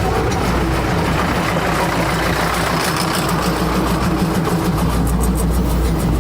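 Heavy diesel train engine running steadily, a low, even hum.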